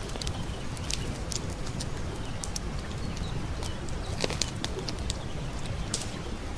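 Wood campfire crackling with sharp, irregular pops, the strongest cluster a little past the middle, over the steady low rush of a brook. A bird calls faintly a few times in the background.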